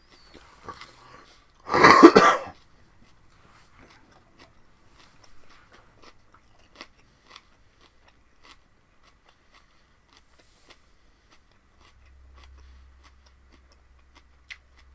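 Someone eating raw vegetables with their mouth close to the microphone. There is one loud, short burst of noise about two seconds in, then soft scattered chewing clicks and crunches.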